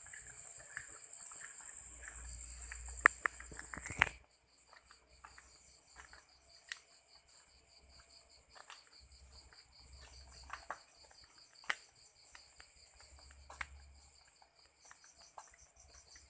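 Night insects, crickets, chirping in a dense chorus: a steady high trill until about four seconds in, then rapidly pulsing trills. Scattered sharp clicks and snaps throughout, the loudest two a little before four seconds in.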